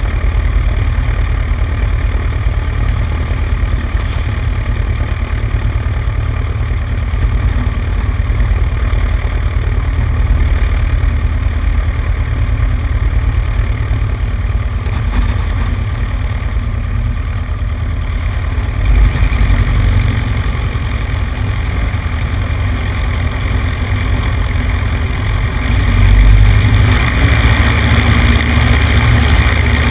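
Cessna 150's four-cylinder Continental O-200 engine and propeller running steadily, heard from a wing-mounted camera with heavy low rumble on the microphone. It gets louder near the end.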